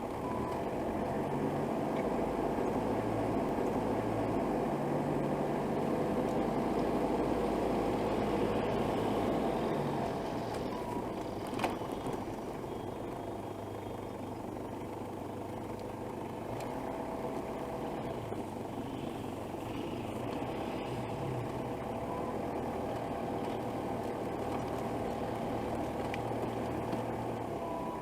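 Heavy vehicle engine running steadily, a little louder for the first ten seconds, with one sharp click about twelve seconds in.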